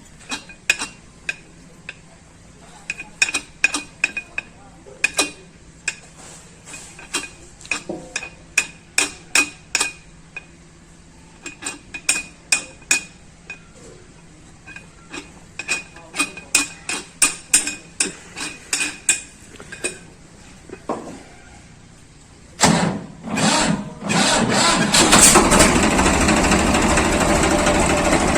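A long series of sharp, irregular clicks and knocks, like tools or metal parts being handled. Near the end, a Swaraj 855 FE tractor's diesel engine starts up and settles into steady running.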